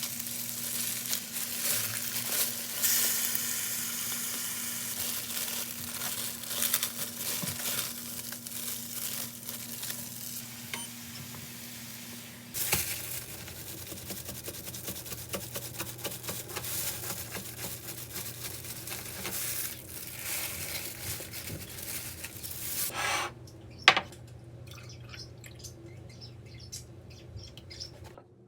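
Food sizzling and crackling as it fries in a pan, over a low steady hum. The sizzling stops about 23 seconds in, followed by one sharp click and a few light clinks.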